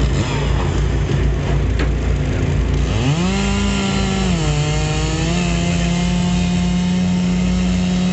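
Chainsaw revving up sharply about three seconds in and running at high speed, its pitch sagging briefly and recovering as if under load in wood, over a steady low engine rumble.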